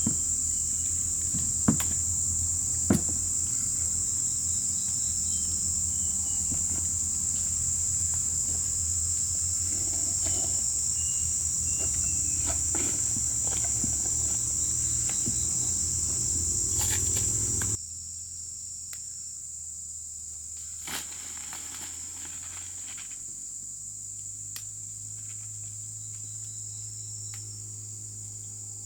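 Insects chirring in a steady, high-pitched drone, with scattered light clicks and knocks. About two-thirds of the way through, a low rumble underneath stops and the whole sound becomes quieter.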